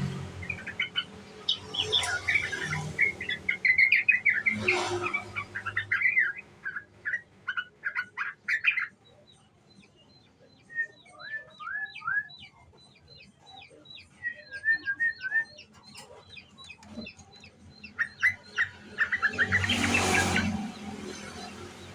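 Young yellow-vented bulbul chattering in a rapid twittering 'ngriwik' song, busy at first, sparser and quieter for several seconds in the middle, then picking up again near the end. Short bursts of hiss come about two and four seconds in and again near the end.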